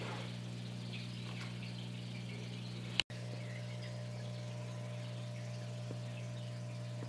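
Steady low hum of room tone, with a click and a split-second dropout about three seconds in.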